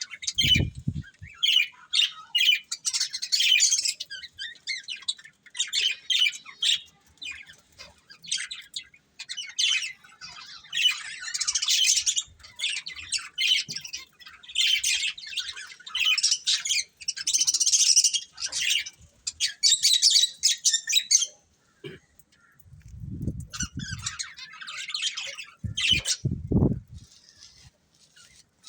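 Budgerigars chattering and chirping in fast, continuous warbling runs with brief pauses. A few low thuds come near the start and twice in the last third.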